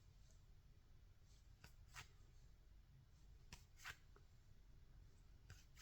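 Very faint, soft flicks of baseball trading cards being slid one behind another while flipping through a pack, about five of them spread irregularly over the stretch.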